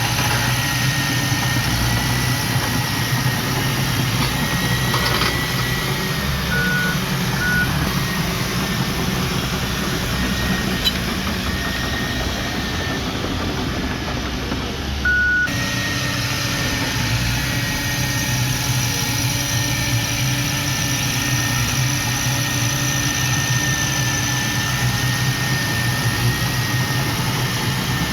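Heavy diesel earthmoving equipment running steadily, a low engine hum with a steady high whine over it. There are two short beeps about a quarter of the way in and one more just past the middle, where the sound changes abruptly.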